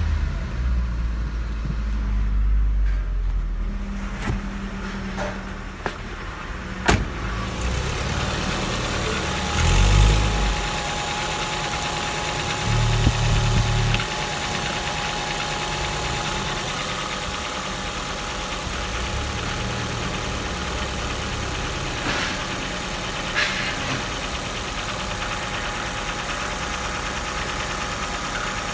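Ford Focus 1.8i EYDC four-cylinder petrol engine running, blipped up from idle a few times in the first half, heard with a heavy rumble from inside the cabin, then idling steadily in the open engine bay. A sharp click about seven seconds in.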